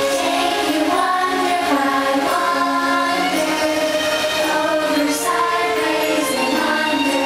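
Choral music: a choir singing long held notes that change pitch every second or so.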